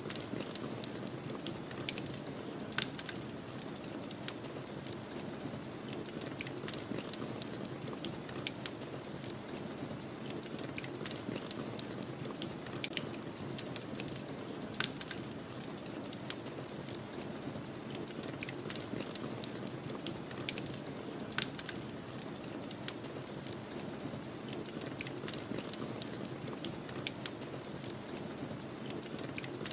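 Wood fire crackling, with many small irregular pops and an occasional louder snap, over a steady low rush of storm wind.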